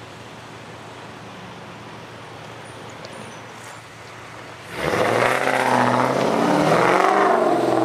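Railroad equipment at a freight interchange: a quiet, steady low rumble, then about five seconds in a much louder sound with several wavering tones that stays loud to the end.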